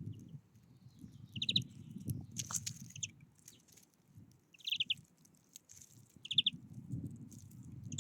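A small bird giving short, rapid trilled calls three times, over a low rustling noise.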